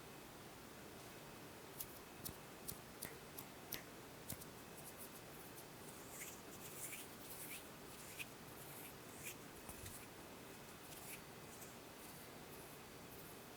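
A run of small, sharp clicks, about seven in two and a half seconds, then softer scratchy rustling, all faint over steady microphone hiss in a small room.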